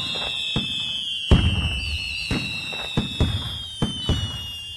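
Fireworks sound effect: high whistling tones gliding slowly down in pitch over a string of irregular bangs, the loudest bang about a second and a half in.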